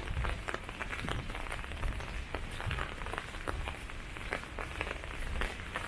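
Rain falling, with many irregular drops ticking sharply close by over a steady low rumble.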